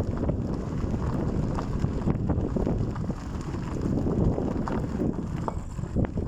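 Wind buffeting the microphone in a steady low rumble, with scattered short knocks and clicks.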